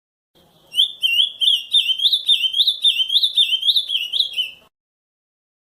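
Ultramarine grosbeak (azulão) singing the 'camaquã' song type: one phrase of about a dozen quick, rising notes that starts about half a second in and cuts off suddenly about a second before the end.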